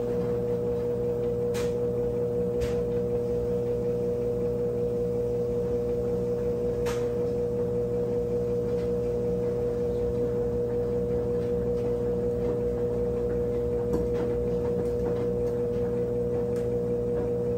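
Brastemp 17 kg washing machine running with a steady, even hum, with a few faint clicks.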